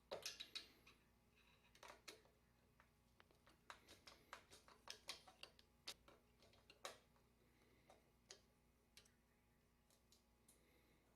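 Faint, irregular light clicks and taps of a screwdriver and small metal parts being handled, densest in the first seven seconds and sparser after, as screws come out of a drywall automatic taper.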